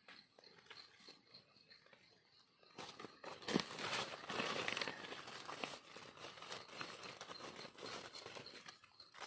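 Leaf litter rustling and crackling, starting about three seconds in and going on to the end, as mushrooms are dug and pulled from the forest floor. Under it runs a faint, steady, pulsing high chirp of an insect.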